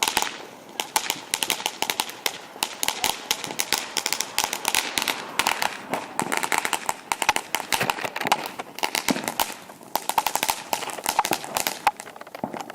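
Firecrackers going off in a dense, irregular run of sharp pops and crackles, several a second, thinning briefly about three-quarters of the way through.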